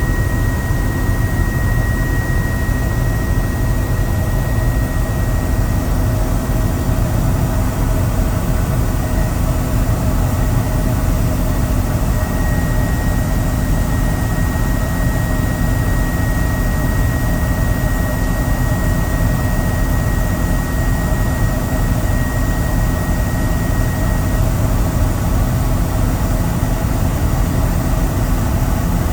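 Helicopter in flight: steady engine and rotor noise, heavy in the low end, with a thin high whine that comes and goes.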